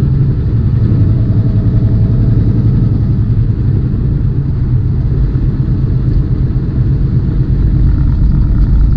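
Semi tractor-trailer's diesel engine and road noise droning steadily while driving, a loud low rumble that holds even throughout.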